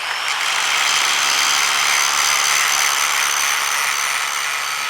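Power grinder grinding paint off a steel beam down to bare metal, ready for welding: a steady harsh grinding noise with a high whine that runs unbroken.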